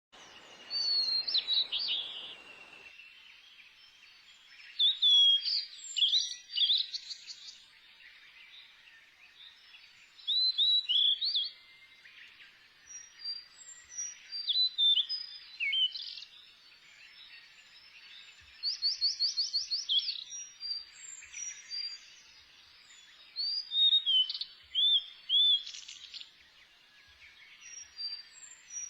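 Birds singing and calling in bursts of quick chirps, slurred whistles and short trills over a faint steady hiss, with a brief rustle in the first three seconds.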